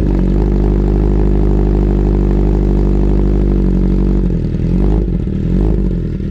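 2012 Honda CBR1000RR Fireblade's inline-four engine, just started, running loud through an Austin Racing aftermarket exhaust. It holds a steady idle, then from about four seconds in the note wavers up and down with small throttle blips.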